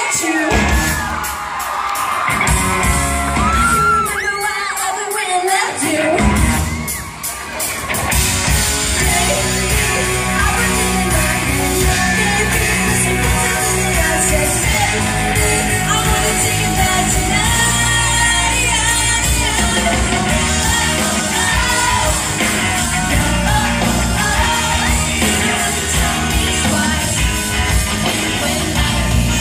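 Pop-rock band playing live with a sung lead vocal, heard loud from the audience, with crowd yelling over it. The opening is sparser, and the full band comes in about seven seconds in.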